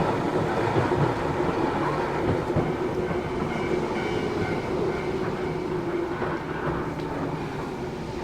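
Running sound inside a Matsumoto Electric Railway 3000 series electric train: steady wheel-and-rail rumble with clickety-clack over the rail joints and a faint steady whine. The sound grows gradually quieter toward the end.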